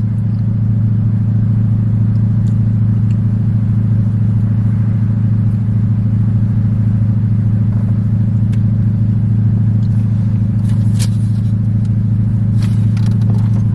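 Steady low rumble of a car heard from inside the cabin, with a few light clicks near the end.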